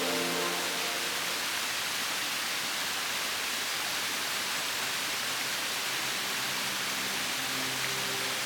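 A steady, even rushing hiss with no pattern, starting abruptly just before and holding level throughout. Soft background music fades out at the start and comes back in from about halfway through.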